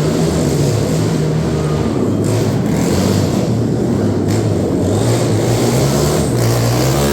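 Racing engines running and revving loudly in a motorsport arena, their pitch rising and falling.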